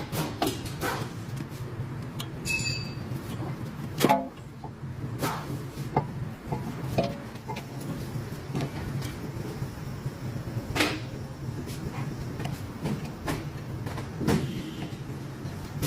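Scattered metallic clicks and knocks from hand tools and brake parts being handled, over a steady low hum; the loudest knock comes about four seconds in, with a brief high squeak just before it.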